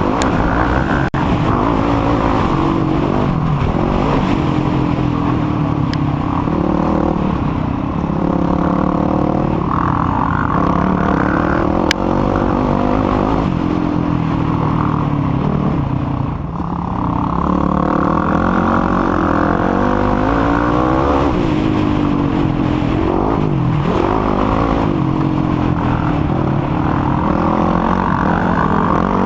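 Single-cylinder four-stroke engine of a Yamaha YFZ450R quad being ridden hard, revving up and down continuously with the gear changes and throttle. The throttle is briefly shut about halfway through, then the engine revs back up.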